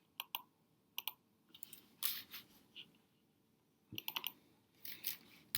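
Typing on a computer keyboard: scattered key clicks in short irregular runs, with quiet gaps between them.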